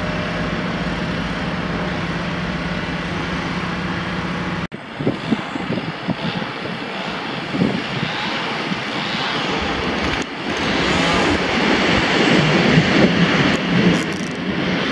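An EN57AL electric multiple unit running slowly with a steady hum. About five seconds in this changes abruptly to an EP07 electric locomotive and its passenger coaches passing: a rumble of wheels on rails with rapid clatter that grows louder toward the end as the coaches go by.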